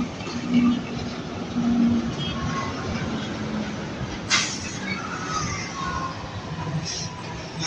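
Heavy truck traffic going by: a steady rumble of diesel engines and tyres, with a sharp clack about four seconds in and a faint, slowly falling squeal, like brakes, after it.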